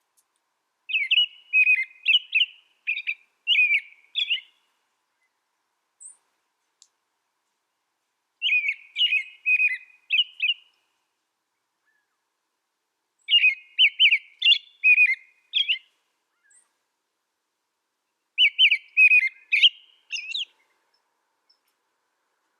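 A songbird singing in four short bursts of quick, chirping and whistled notes, each about two to three seconds long, with pauses of a few seconds between them.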